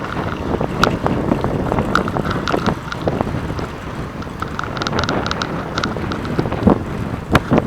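Wind buffeting the microphone of a camera on a moving bicycle, a steady low rumble, with frequent small clicks and rattles from the bike as it rolls along.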